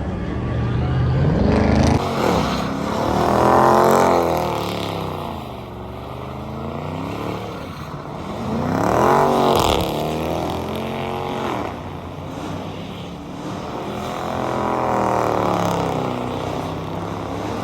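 Car engine revving, its pitch sweeping up and falling back in three loud swells.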